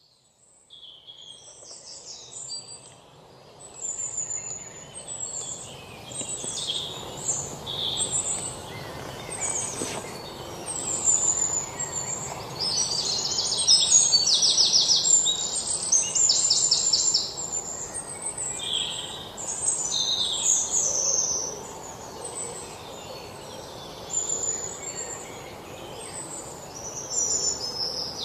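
Several birds chirping and singing: many short high calls and some fast trills, over a steady outdoor background hiss, fading in over the first few seconds.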